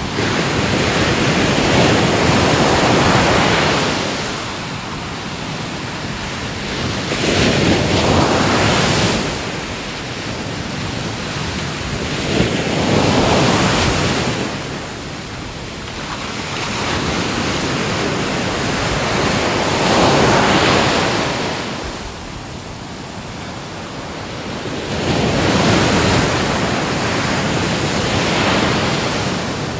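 Ocean surf washing ashore, the rush of each wave rising and falling away in slow swells about every five or six seconds.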